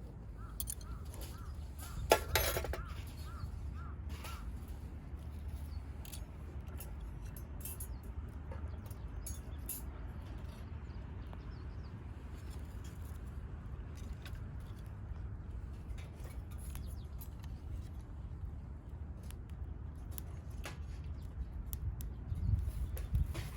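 Campfire crackling with scattered sharp pops, over a steady low rumble. About two seconds in, one loud clinking knock rings briefly.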